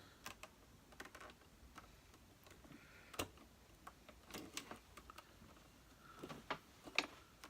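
Scattered light clicks and knocks of plastic vacuum-cleaner parts being handled and pushed together, with a sharper click about three seconds in and another near the end.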